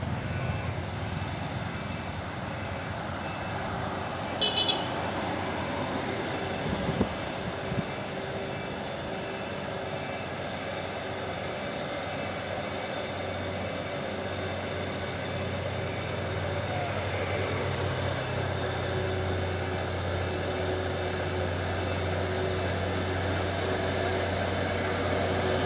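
Truck engine running steadily under load on a muddy climb, with a low drone that grows stronger about halfway through. A short run of high-pitched beeps comes about four seconds in.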